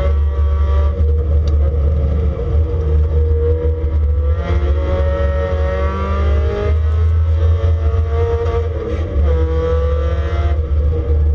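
Mazda Miata race car's four-cylinder engine heard from inside the stripped cabin at speed, climbing in pitch under throttle and dropping back several times, over a heavy low rumble.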